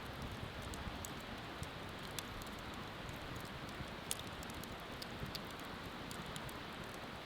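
Bonfire crackling, with scattered sharp pops at irregular moments, the loudest about four seconds in, over a steady rushing of river water.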